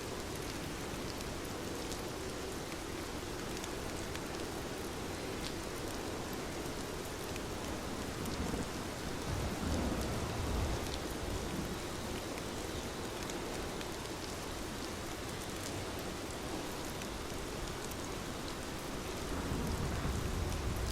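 Heavy rain falling steadily, with distant thunder rumbling low about halfway through and again near the end.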